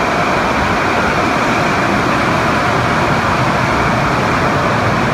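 Automatic car wash equipment running with a loud, steady rushing noise.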